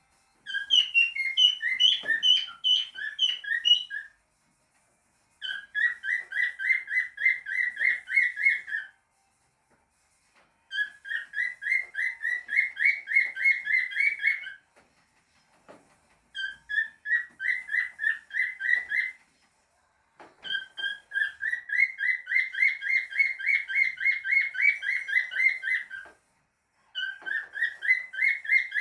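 Cockatiel singing in bouts of quick, repeated whistled notes. Each bout lasts a few seconds, with short pauses between them, about six in all.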